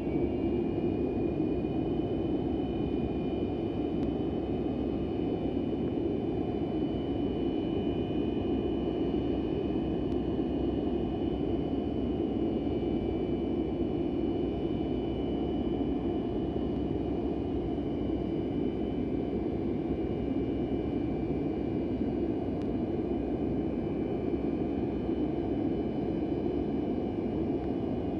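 Turbofan engines of an Antonov An-124 running steadily: a deep, even rush of engine noise with several high whines over it. One whine is still climbing in pitch right at the start as an engine finishes spooling up after a cold start, then all hold level.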